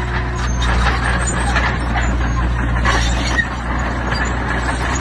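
Heavy diesel earthmoving machinery running steadily under load, with loose stone grinding and clattering as it is pushed or moved.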